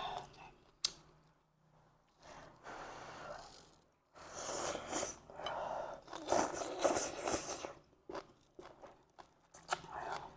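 A person eating bún riêu noodle soup: chewing and mouth noises in several stretches, with a sharp click about a second in.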